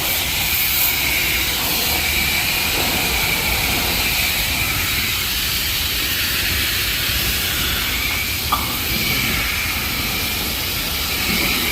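Self-serve car wash high-pressure spray wand blasting water onto the car's tires and body, a steady hiss.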